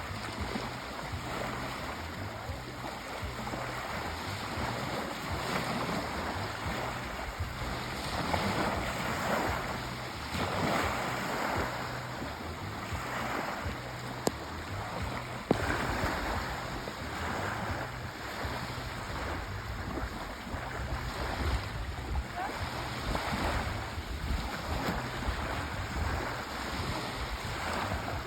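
Sea waves washing onto a shore, a steady surf wash that swells and eases every few seconds, with two brief clicks about halfway through.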